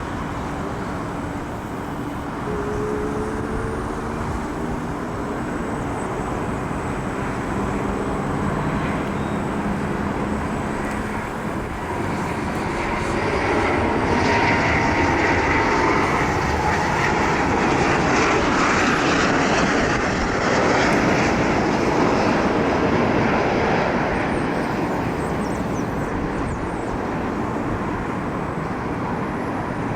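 Boeing 737 MAX 8 jet landing, the noise of its CFM LEAP-1B turbofan engines swelling to its loudest about halfway through, then easing.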